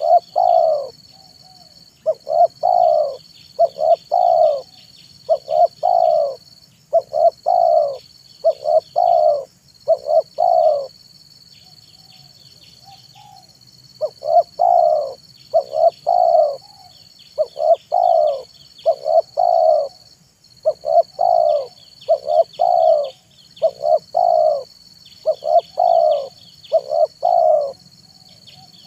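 Spotted dove (tekukur) singing its cooing song: a steady run of repeated low coo phrases, with a pause of a few seconds near the middle. A steady high-pitched pulsing buzz and faint chirps run behind it.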